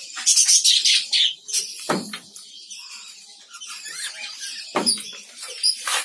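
Small aviary birds chirping and twittering in a small room, with a couple of dull knocks about two seconds in and near the five-second mark.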